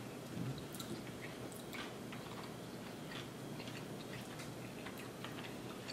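Close-up chewing of sushi rolls, quiet, with scattered soft irregular clicks from the mouth.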